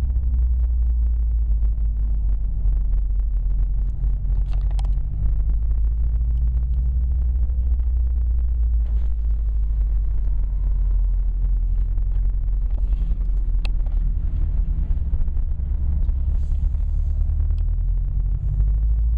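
A 2011 Subaru WRX sedan producing a steady low rumble, with a couple of faint, sharp clicks over it.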